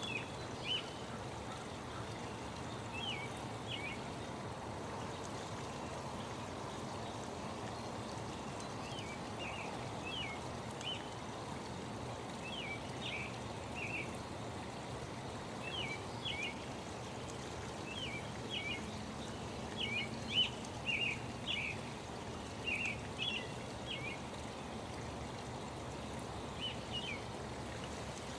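Small birds chirping in short high calls over a steady rush of flowing water, the chirping busiest about two-thirds of the way through.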